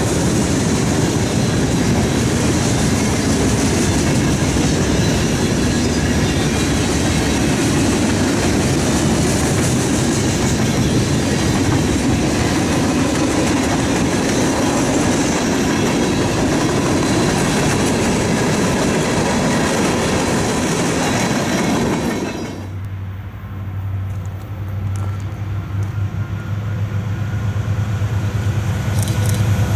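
Freight train cars rolling past, with loud, steady wheel-on-rail noise. About three-quarters of the way through it cuts off abruptly and gives way to a quieter, low steady hum that grows louder near the end, as of an approaching locomotive.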